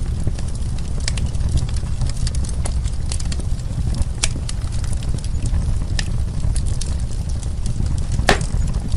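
Wood fire crackling, with a steady low rumble under frequent sharp pops and snaps of burning wood. The loudest pop comes near the end.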